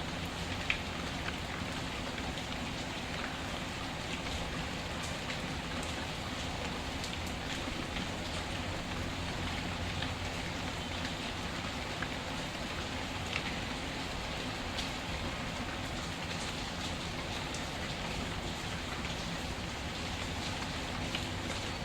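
Steady rain falling, with a few sharp pops and crackles from a wood fire, the loudest about a second in and about thirteen seconds in.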